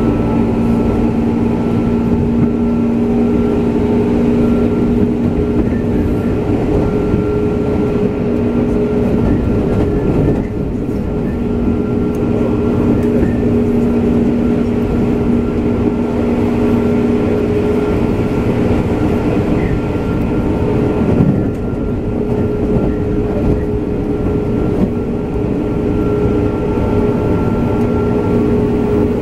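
JR West 201 series electric train running, heard from inside the car: a steady rumble of wheels on rail with a constant hum from the motors. The hum thins out briefly about ten seconds in and again a little past twenty seconds.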